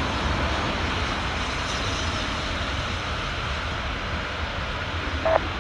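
Steady rushing noise of jet aircraft engines at a distance, slowly fading. A short radio blip sounds near the end.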